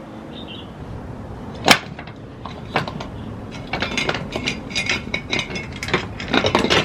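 Hand tool working the rear axle nut off a pit bike: one sharp metal knock, then a quick run of metallic clicks and clinks as the wrench turns the nut.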